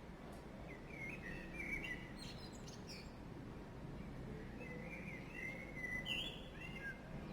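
Small birds chirping in two bursts of quick, sliding chirps, one about a second in and another from about four and a half seconds in, over a faint steady background hum.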